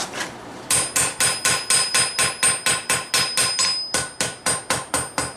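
Hand hammer forging hot steel on an anvil, about four blows a second, each leaving a ringing tone from the anvil. The hammering starts under a second in and pauses briefly near four seconds.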